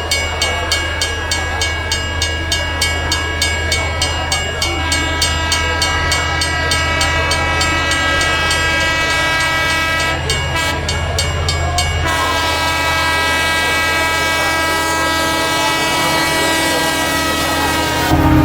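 Train running on rails, with wheels clicking over rail joints about two to three times a second at first, then fading. Under it are a steady low rumble and a high multi-tone whine that shifts in pitch about two-thirds of the way through.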